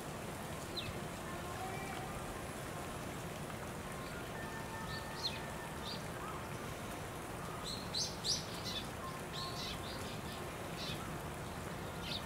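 Small birds chirping in short, high notes over steady outdoor background noise, with a quick flurry of chirps about eight seconds in.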